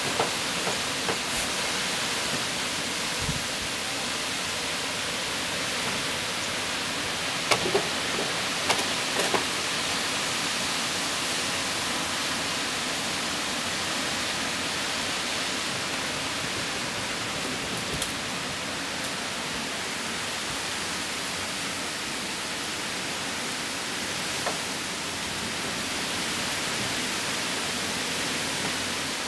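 Heavy storm rain pouring steadily as an even hiss, with a few sharp taps of drops or debris, mostly around a third of the way in.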